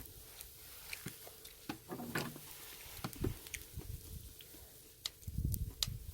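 Quiet handling of food and utensils during a meal: scattered light clicks and taps, then a run of low, muffled thumps and rustling near the end.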